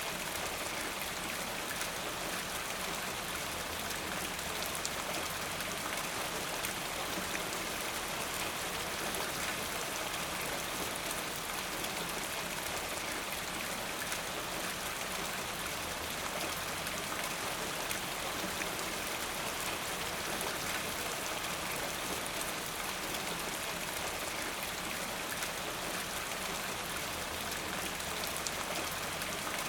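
Steady rainfall, drops pattering on a surface in a continuous even hiss with many small ticks.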